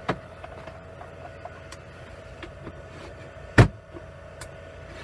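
Handling knocks and clicks from an electric heater being picked up and moved, with one loud thump about three and a half seconds in as it is set down. A faint steady hum runs underneath.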